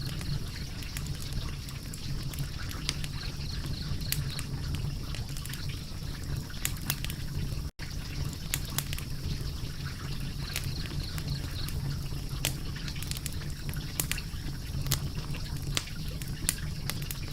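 Fire crackling, with irregular sharp pops over a steady low rush. The sound drops out for an instant about eight seconds in.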